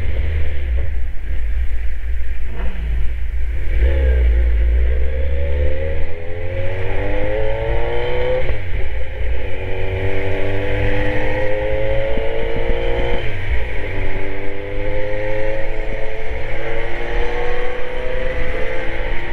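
Kawasaki Z900 inline-four engine accelerating hard through the gears. Its pitch climbs, drops sharply at each upshift about eight and thirteen seconds in, and climbs again, over a heavy low rumble.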